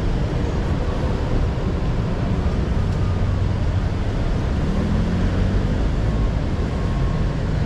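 Steady city street traffic noise: the running engines of slow, jammed cars.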